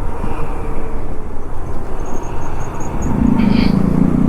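Motorcycle riding noise: wind rushing over the helmet-mounted action camera's microphone along with road and engine noise. About three seconds in, a louder low drone joins for about a second.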